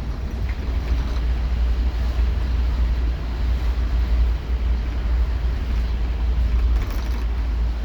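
Scania K230UB Omnilink bus running on the road, heard from on board: a steady, heavy low engine rumble mixed with road noise.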